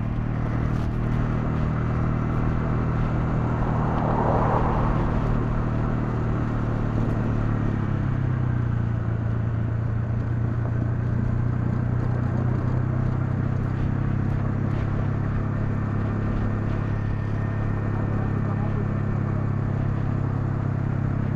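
Honda CL250's single-cylinder engine running at a steady cruising speed with wind rush, heard from the moving motorcycle. The engine note steps up slightly about eight seconds in and then holds steady.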